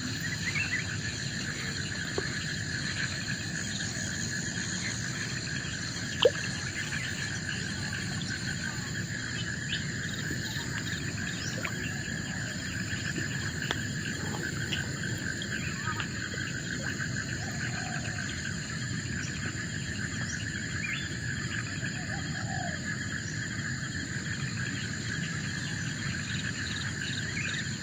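Forest insect chorus: several steady, high trilling tones from crickets and other insects, one of them pulsing fast, over a low steady rush, with scattered short chirps and a single sharp click about six seconds in.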